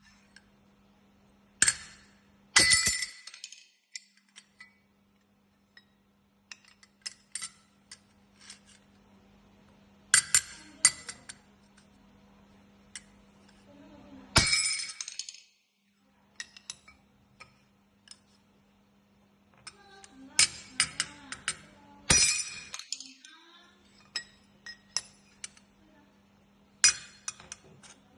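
Metal pieces clinking and being struck: a handful of loud, sharp ringing strikes among many lighter clicks and taps, over a steady low hum.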